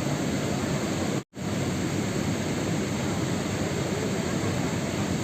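Steady rain noise, an even dense hiss heavier in the low end, broken once by a split-second dropout to silence about a second in.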